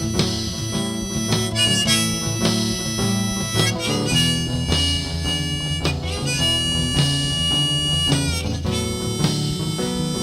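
Background music: a blues harmonica playing long held notes over guitar accompaniment.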